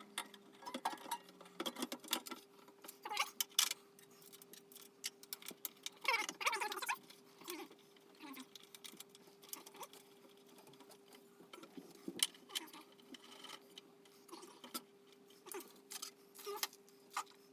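Irregular clicks, taps and light metallic rattles of small parts and bolts being handled and fitted on a small benchtop bandsaw, with a short scraping rasp about six seconds in, over a faint steady hum.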